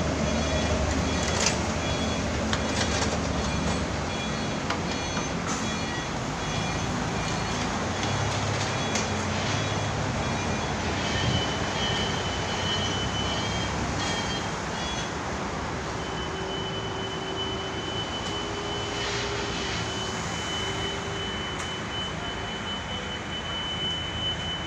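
Truck engine running with street traffic noise around it. A steady high whine joins about two-thirds of the way through.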